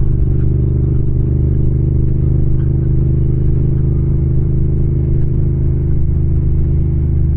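Yamaha MT-07 parallel-twin motorcycle engine running at a steady, unchanging speed.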